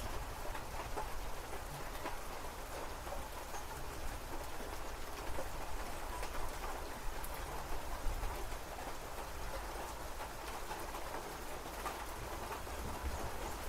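Steady rain falling, a dense run of small drop ticks over an even hiss.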